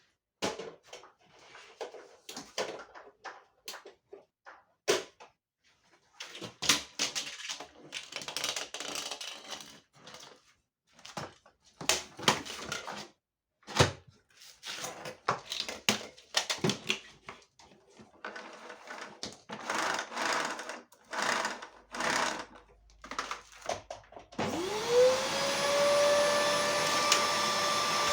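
Intermittent clattering, clicking and rustling of parts being handled. Near the end an electric motor starts, its whine rising quickly and then running steadily.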